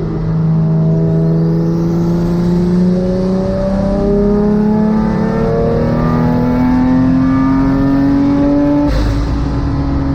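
Rear engine of a twin-engine Mazda MX-3 pulling hard through one gear, its note climbing steadily for about nine seconds. It then drops back at a gear change and pulls again. It runs alone because the front engine has blown a rod through the side of its block.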